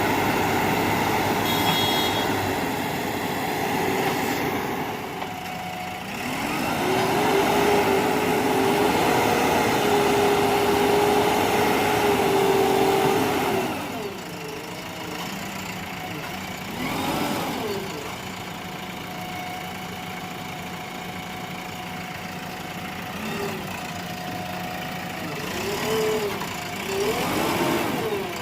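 Heavy vehicle's diesel engine running. About a quarter of the way in it is revved up and held high for several seconds, then it settles to an idle with a few short revs rising and falling near the end.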